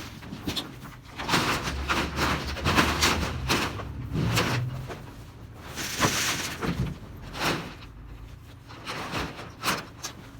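Corrugated tin roofing sheets being handled, clattering and scraping with a string of irregular metallic clanks.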